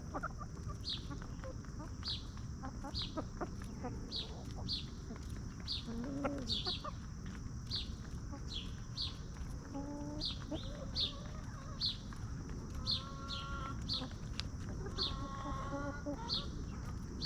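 Free-range chickens clucking, with short pitched calls about ten seconds in and again a few seconds later, over a steady high drone and a short high chirp repeating about every two-thirds of a second.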